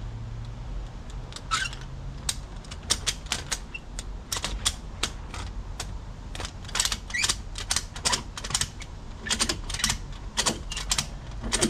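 Ratchet clicking in uneven bursts as it is worked stroke by stroke to pull a strap around a seized bus wheel, freeing the stuck brake drum.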